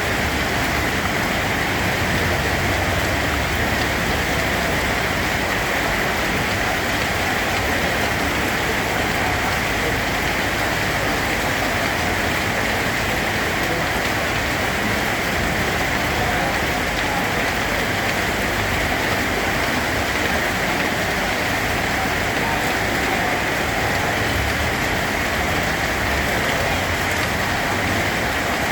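Rain falling steadily, an even hiss of many drops with no breaks or changes.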